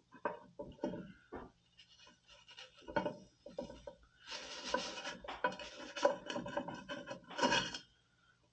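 Scraping and rustling of parts being handled, with two short hissing bursts of an aerosol spray adhesive can: one about four seconds in, the other near the end.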